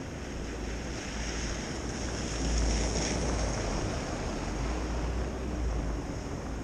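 Wind buffeting the microphone over a steady rush of street noise, gusting harder about two and a half seconds in.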